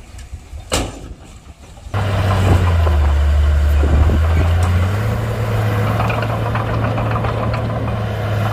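Diesel engine of a Komatsu D31-P crawler bulldozer running, coming in suddenly and loud about two seconds in after a quieter stretch with a sharp click. Its pitch steps up about halfway through and then holds steady.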